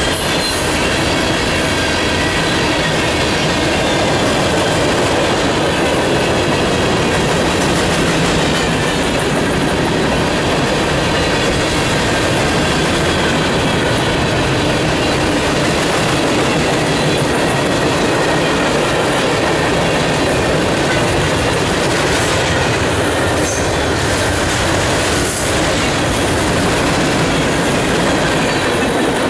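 A train rolling past with a continuous, steady noise of wheels on rail and faint wheel squealing.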